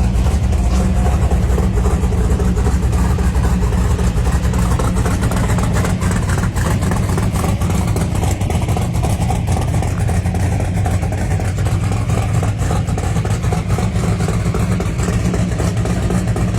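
The built 427 V8 of a race-prepared 1968 Pontiac Firebird running loudly and steadily with a heavy low rumble.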